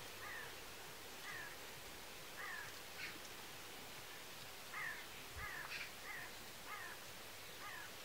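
A bird giving short, downward-sliding calls, about nine of them at irregular intervals, with a couple of fainter, higher chirps from another bird over a faint steady outdoor hiss.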